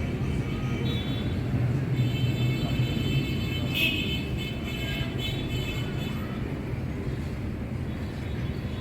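Steady low hum with an even background hiss of room noise.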